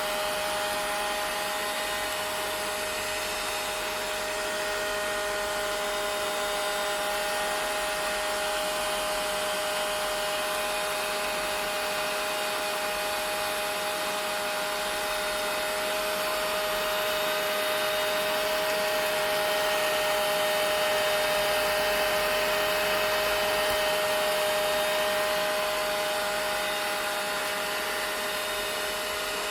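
Vacuum cleaner running steadily: an even rush of air with a constant whining tone, swelling slightly louder about two-thirds of the way through.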